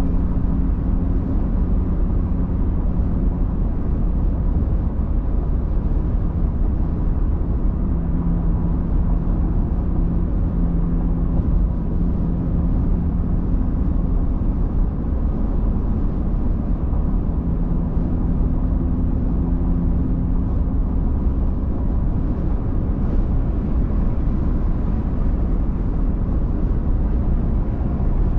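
A car driving along a highway: a steady low rumble of tyre and road noise, with a low engine hum that comes and goes.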